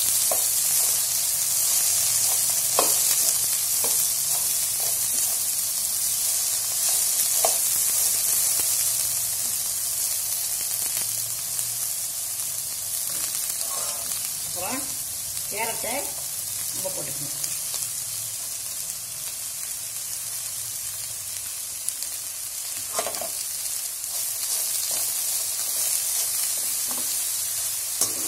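Sliced okra sizzling as it fries in oil in a pan, a steady hiss, with a few short scrapes and clinks of a metal slotted spoon stirring it.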